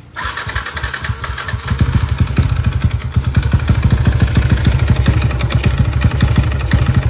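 Underbone motorcycle's single-cylinder engine started and left running with a fast, uneven beat that gets louder about two seconds in. The owner calls the sound critical, and the engine turns out to have a holed, seizing piston.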